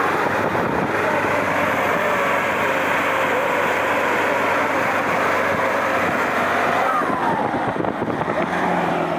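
A motor vehicle's engine running steadily, with a dense noise of the run over it.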